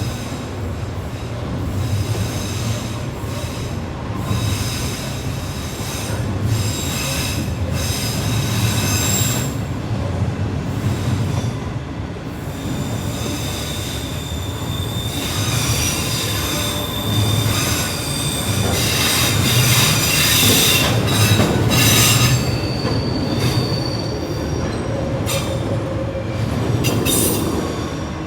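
Train running by with a steady low rumble and its wheels squealing on and off in high thin tones, the squeal strongest in the second half.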